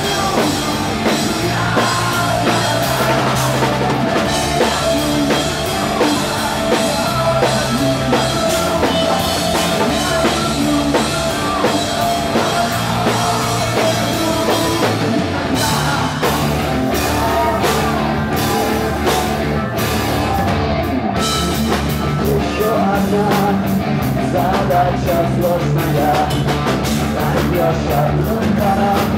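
Rock band playing live, punk-rock style: a drum kit keeping a steady beat under guitars and a singing voice.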